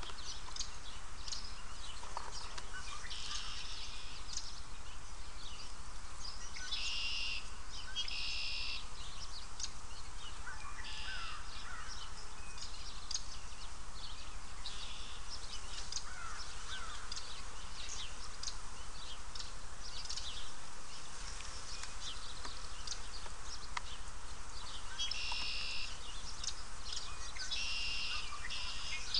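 A bird outside calling with short, harsh calls, one at a time or two close together, several times over. Light clicks and ticks sound in between.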